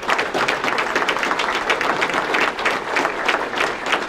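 A group of people applauding, many irregular hand claps, to welcome a new member.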